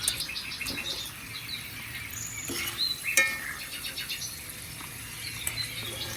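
Birds chirping and singing: quick trills and short high chirps, several overlapping, over a faint low hum.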